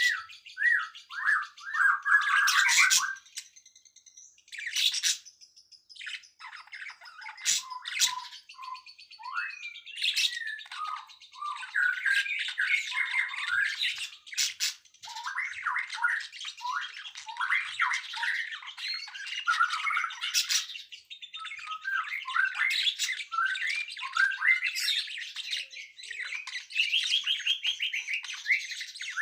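Songbird singing a fast, varied run of chirps and trills, with short harsh squawk-like notes breaking in now and then.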